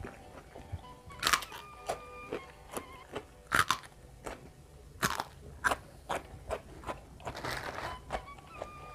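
Crisp raw vegetables being bitten and chewed close up, a run of sharp crunches with chewing between them.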